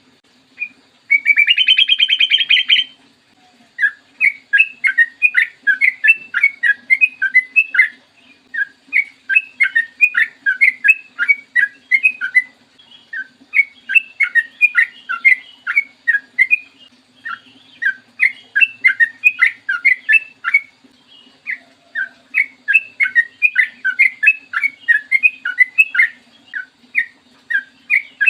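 Sooty-headed bulbul singing in long, rapid runs of quick bright notes, in several bursts separated by short pauses, with a harsh buzzing rattle about a second in.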